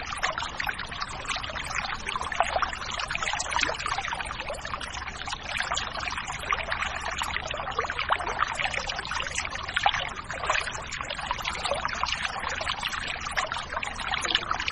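River water flowing and splashing: a steady rush of water with many small splashes in it.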